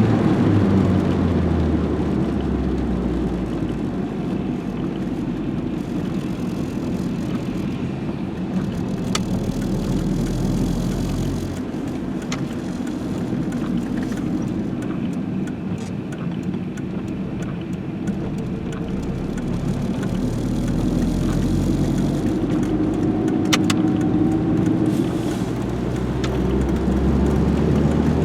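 Car running on the road, the Renault 21 GTS's 1.7-litre carburetted engine and road rumble, with the engine note rising and falling as its speed changes. A few short clicks sound in the middle and later.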